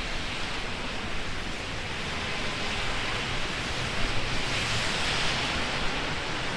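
Heavy rain with gusting wind: a steady hiss that swells a little about four seconds in.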